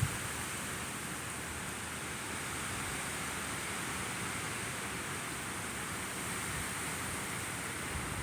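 Steady, even hiss of rain falling during a thunderstorm, with no thunder.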